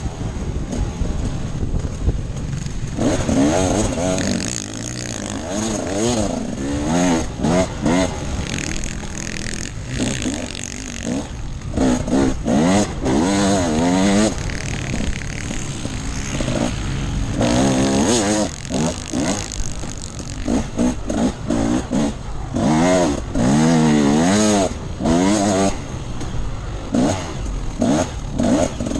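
Enduro dirt bike engine running under the rider, revving up and falling back again and again as the throttle is opened and closed, over a steady rumble and wind noise.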